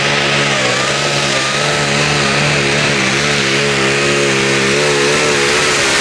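Tractor-pulling engine running loud and steady at a held pitch, with a wavering higher note above the main drone.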